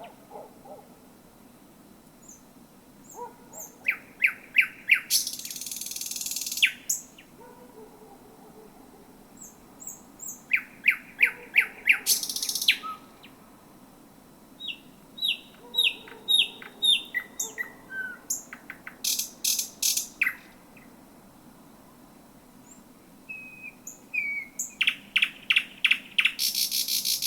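Thrush nightingale singing: loud phrases built from fast runs of repeated clicking notes, harsh rasping bursts and varied whistled notes, separated by pauses of a few seconds.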